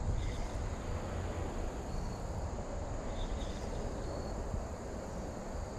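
Steady outdoor rushing noise with insects calling faintly and steadily, and a few short high chirps scattered through.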